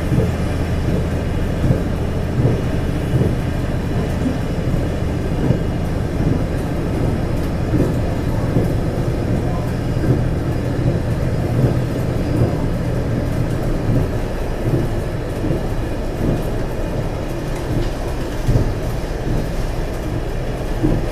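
Diesel multiple-unit express train running, a steady low engine drone with irregular knocks and rattles; the drone eases somewhat about two-thirds of the way through.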